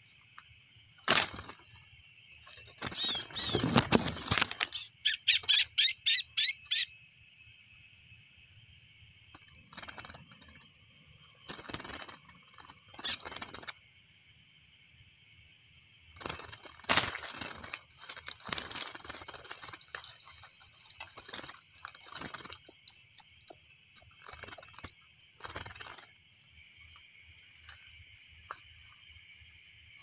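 Small bird giving rapid, high chirps, about five a second, in two spells: a few seconds in and again through the second half. Under it runs a steady night chorus of crickets, with brief rustles of leaves and branches.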